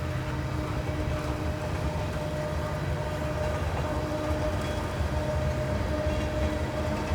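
Train running by: a steady low rumble with a thin, steady tone over it.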